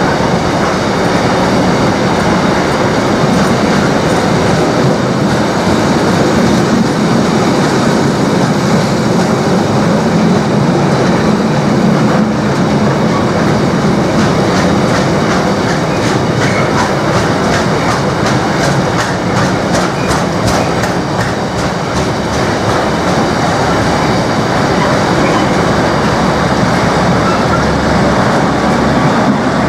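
Container flat wagons of a long freight train rolling past: a steady loud rumble and rail noise, with the rapid clickety-clack of wheelsets over rail joints most marked about halfway through.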